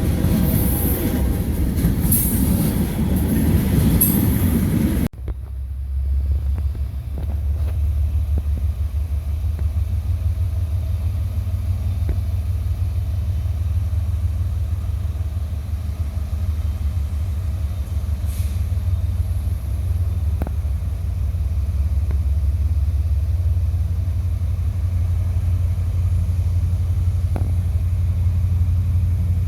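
Train passing, a loud rush of wheel and rail noise, cut off abruptly about five seconds in. It gives way to a steady low rumble with a few faint clicks.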